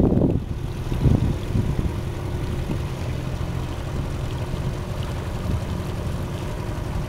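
Small boat's motor running steadily at low speed, an even low hum, with a couple of gusts of wind on the microphone in the first second.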